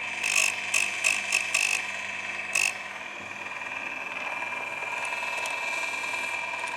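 Electric chainsaw chain sharpener running with a steady whine. It is broken in the first three seconds by about six short, rasping bursts.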